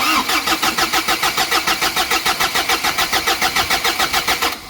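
Ford Courier diesel engine cranked over on its starter motor, an even pulsing of about eight beats a second, to build oil pressure after the fuel system was primed. The cranking starts and stops abruptly.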